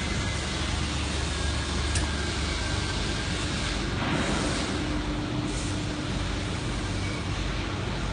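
Construction machinery running steadily: a low engine rumble under a wide, even noise, with one sharp click about two seconds in.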